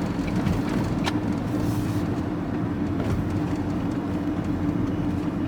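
Steady engine drone and road rumble of a vehicle being driven, heard from inside the cab, with a brief click about a second in.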